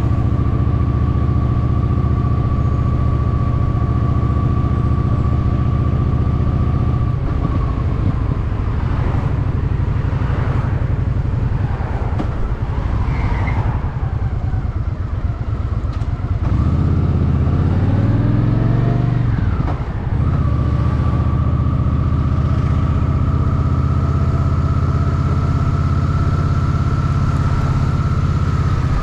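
Honda Shadow VT750's V-twin engine under way: it runs steadily for about seven seconds, then eases off for several seconds. About two-thirds in it pulls up with a rising pitch, there is a short break for a gear change, and it settles into a steady cruise again that drops off near the end.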